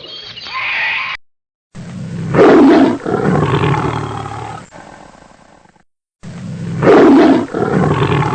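A big cat roaring twice, each roar about three to four seconds long: loudest at the start, then trailing off. The two roars are nearly identical and are separated by short silences.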